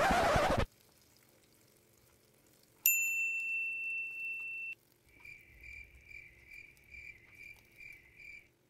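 A short loud whoosh of noise, then a steady high-pitched beep lasting about two seconds, then a high tone pulsing a little over twice a second for about three seconds.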